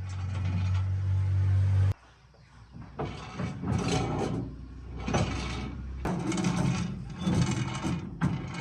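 A steady low machine hum that cuts off abruptly about two seconds in, followed by irregular scrapes and knocks roughly once a second.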